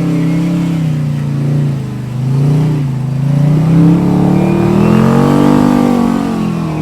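Off-road 4x4's engine revving under load on a trail obstacle, its pitch dipping, then climbing to a high rev and falling back near the end.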